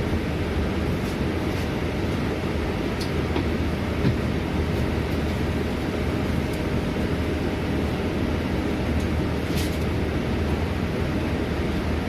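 Scania bus heard from inside the cabin: steady engine drone and road noise, with a few faint clicks and rattles from the body.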